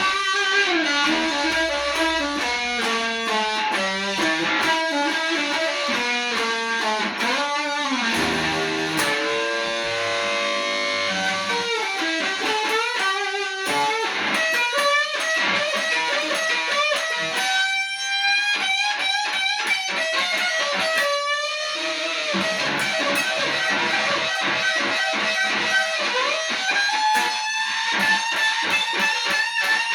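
Electric guitar playing a blues solo line, with many bent notes gliding up and down and wavering vibrato on held notes.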